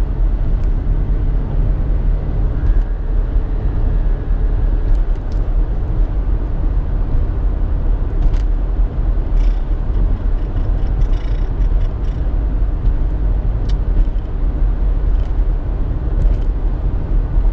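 Steady road and engine rumble heard inside a moving car's cabin, with a few faint ticks.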